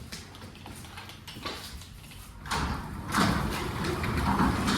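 Sectional garage door rolling along its tracks, its rollers rumbling, starting about two and a half seconds in and growing louder. The door is being run to test the balance of its newly replaced springs.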